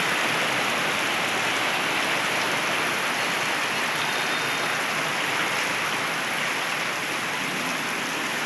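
Heavy rain pouring down steadily onto a flooded street, a dense even hiss that holds level throughout.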